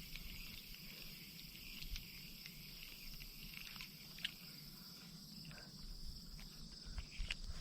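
Faint, steady outdoor insect chorus that thins out about five seconds in, with scattered small clicks and taps.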